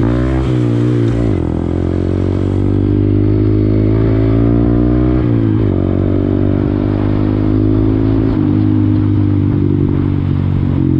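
Honda Grom's small single-cylinder engine under way: it revs up and down, then climbs steadily as the bike accelerates. Its pitch dips about five seconds in, and it runs at a fairly even speed after that.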